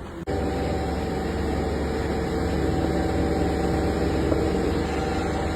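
An engine running steadily at idle, a low rumble with a constant hum, cutting in suddenly just after the start.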